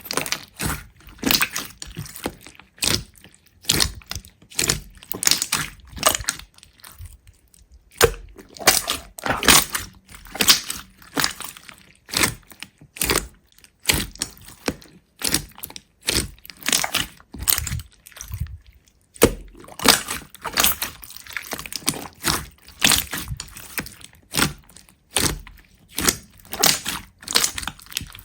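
A long run of sharp crunches and cracks, irregular, about one or two a second, with a few short pauses, as of something brittle being broken or crushed.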